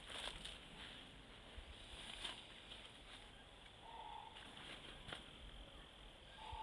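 Faint outdoor field ambience: a steady soft hiss with a few light clicks and two short pitched notes, one about four seconds in and one near the end.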